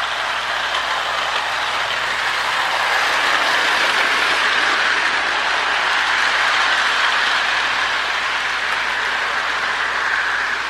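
Marx E7 toy diesel locomotive running on model train track with a nine-car train behind it: a steady rushing rattle of its electric motor, gears and wheels, swelling a little in the middle. It runs strongly on new motor brushes and polished wheels and pickup shoe.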